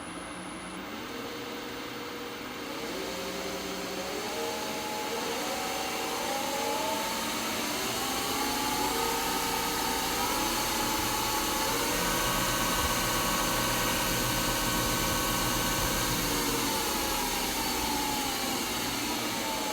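Warco 250V metal lathe running on its variable speed control: the motor and spindle whine steps up in pitch several times as the speed is turned up, holds steady for a few seconds, then slowly falls as the speed is wound back down. It runs quietly.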